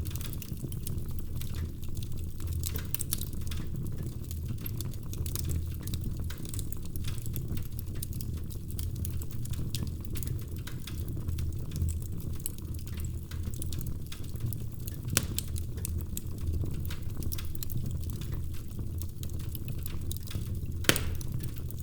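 Wood fire burning in a fireplace: continuous crackling and small snaps over a low rumble of the flames, with two sharper pops, one about fifteen seconds in and one near the end.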